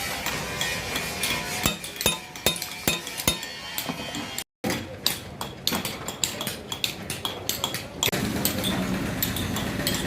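Irregular sharp metallic taps and clinks of hand tools striking a broken nut stuck in a truck engine head, over background music. The sound cuts out completely for a moment about halfway through.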